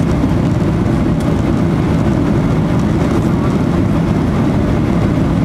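Steady low rumble of an airliner's cabin noise, heard from inside the passenger cabin.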